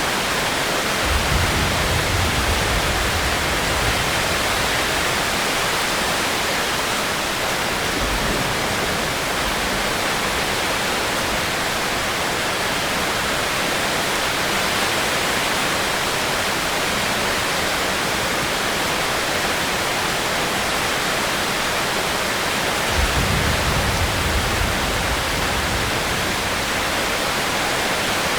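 Steady, heavy rain falling as an even hiss, with a short low rumble about a second in and another near the end.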